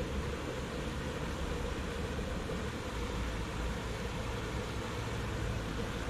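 Fast-flowing river rushing steadily, a continuous even roar of water.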